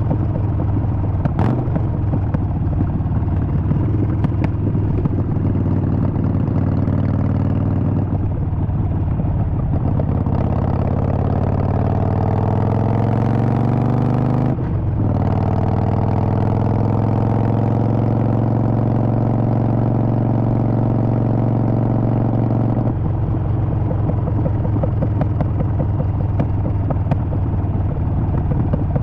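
Harley-Davidson Sportster Forty-Eight's air-cooled V-twin engine running while riding. Its pitch climbs steadily from about ten seconds in as it accelerates, breaks off briefly about halfway through, climbs again, then drops back to a lower, rougher note some six seconds before the end.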